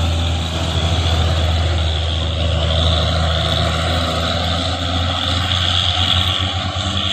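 Heavy truck's diesel engine running steadily close by, a low, even drone.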